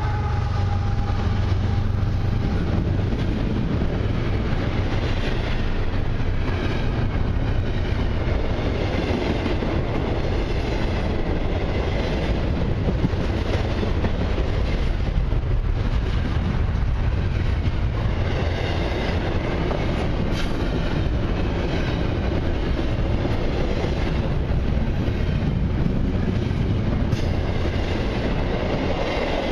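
CN intermodal freight train rolling past on the rails: a steady, loud rumble of cars and wheels.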